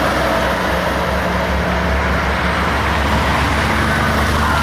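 Heavy diesel truck engine running steadily as it passes, with road and tyre noise from traffic.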